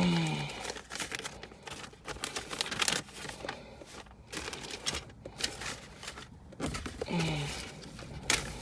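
Irregular rustling and crinkling with scattered small clicks and knocks, and two short low sounds that fall in pitch, one at the start and one about seven seconds in.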